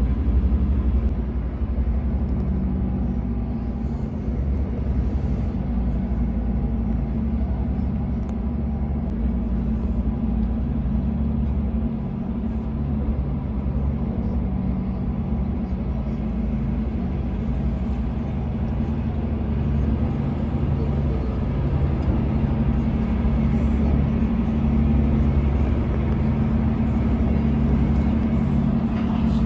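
Passenger ferry's engines running, a steady low drone with a hum of several low tones.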